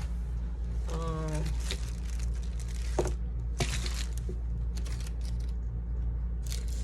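Rustling and a few sharp clicks of small craft supplies being handled, over a steady low electrical hum.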